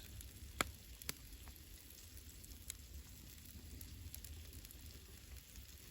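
Campfire with wild boar kebabs cooking over it: a faint steady sizzle and hiss, with a few sharp crackles from the fire, two within the first second and another a little later.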